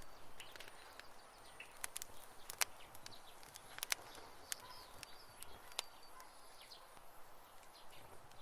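Campfire burning, wood crackling with irregular sharp pops, the loudest about two and a half and four seconds in, over a soft steady hiss.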